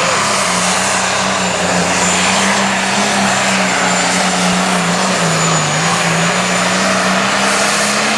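Limited pro stock pulling tractor's turbocharged diesel engine running flat out under load during a pull. It is loud and steady with a thin high whistle above it, and its pitch sags slightly about five seconds in.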